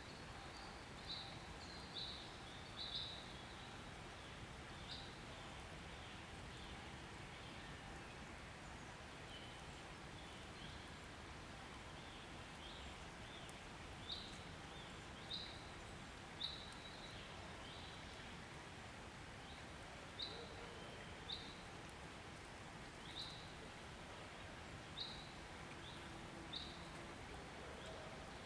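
Short, high chirps from a small bird, each a quick falling note, repeating irregularly every second or two over a faint steady outdoor hiss.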